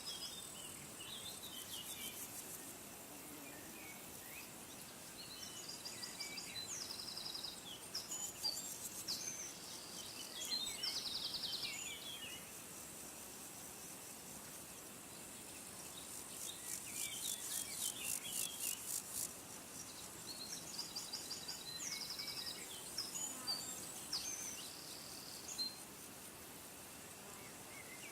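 Small birds chirping and trilling in short phrases, with high, rapidly pulsing insect trills at the start and again past the middle, over a faint steady outdoor hiss.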